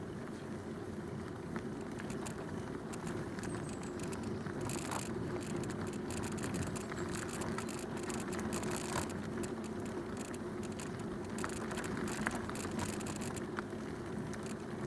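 Bicycle riding along a canal towpath: tyres running on the path with a steady low rumble, and scattered light clicks and rattles from the bike.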